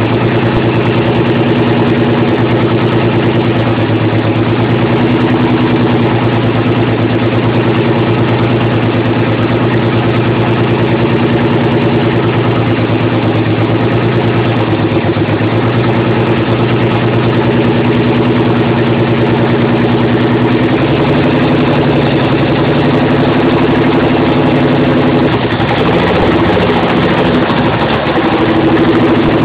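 Nissan 300ZX V6 running at idle while misfiring, firing on only four or five of its six cylinders because of bad fuel injectors and old injector clips. The engine note holds steady, then shifts slightly and wavers near the end.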